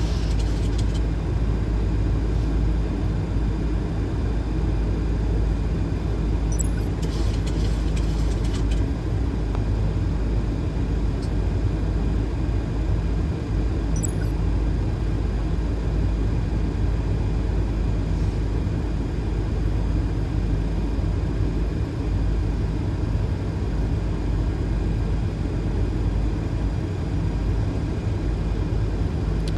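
Steady flight-deck noise of a Boeing 737 on final approach: an even rush of airflow over the fuselage and engine drone, with a few faint clicks about seven seconds in.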